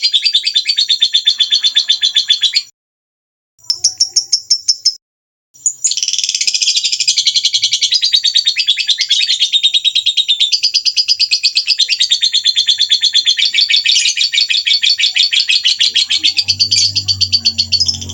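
Small songbird singing a fast, continuous trilling song of rapid high chirps. The song cuts out to silence twice briefly near the start, then runs on unbroken.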